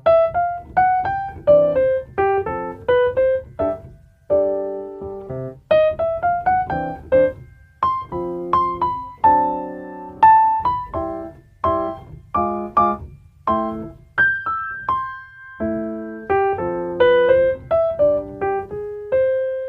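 Solo piano music: a melody of separate struck notes, several a second, each fading after it is struck.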